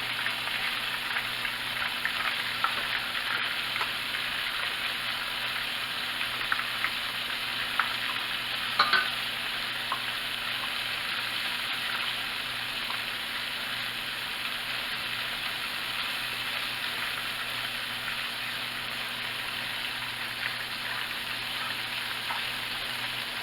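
Flour-and-cornstarch-dredged chicken livers frying in hot oil in a pan: a steady sizzle with scattered small pops, and a brief knock about nine seconds in.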